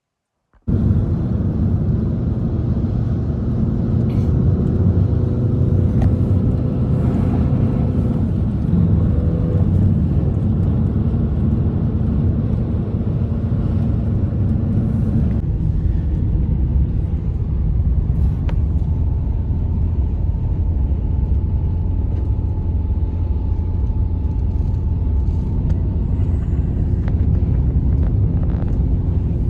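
A motor vehicle's engine running steadily, a loud low rumble with faint steady tones over it, starting suddenly just after the beginning.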